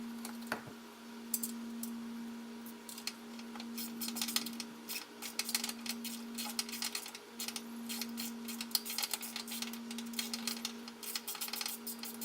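Ratchet wrench clicking in repeated quick runs as the rear mounting bolts of a slip-on motorcycle muffler are snugged tight, over a steady low hum.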